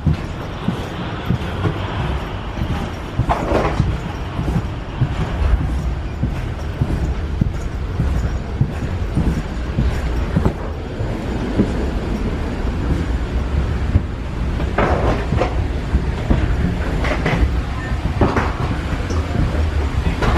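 Steady low rumble of a moving vehicle heard from inside, with scattered knocks and rattles, several of them sharper around 3–4 s, 15 s and 17–18 s.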